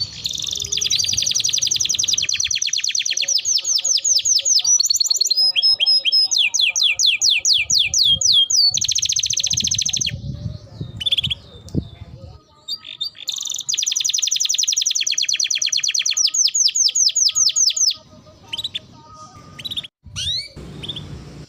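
Domestic canary singing long, rapid rolling trills of evenly repeated high notes, about ten seconds at first and then another run of about four seconds after a short pause, with scattered chirps between and after.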